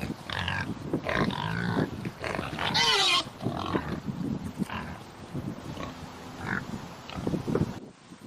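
An animal calling again and again in short pitched calls, the loudest a wavering call about three seconds in.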